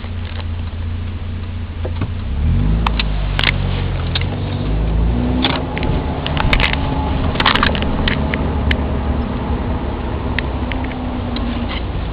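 Volvo 740's 16-valve four-cylinder engine heard from inside the cabin, pulling steadily, then rising in pitch as the car accelerates about two seconds in and settling at a steady cruise. Scattered clicks and rattles sound throughout.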